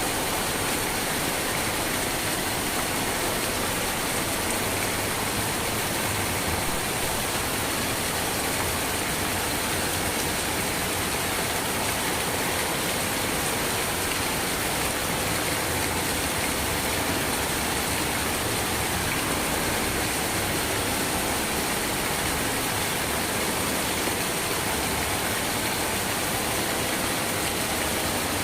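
Steady rainfall, an even unbroken hiss that holds the same level throughout, with no thunder or single drops standing out.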